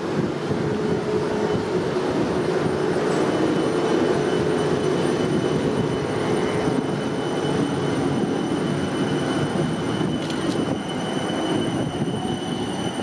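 Eight-car Class 455 electric multiple unit pulling away and slowly gathering speed. Its running noise is steady, with a low hum and a high whine held throughout.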